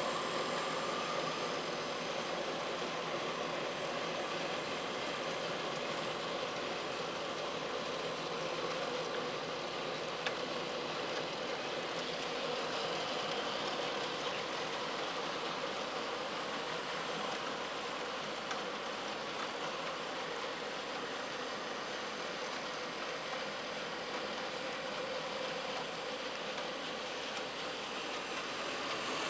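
Sound-fitted model diesel locomotive, its DCC sound decoder playing a diesel engine running steadily through the loco's small speaker.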